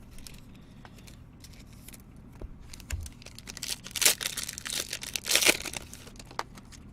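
Baseball card pack wrapper being torn open and crinkled, in loud rustling bursts about four and five and a half seconds in, after a few light clicks and rustles of cards being handled.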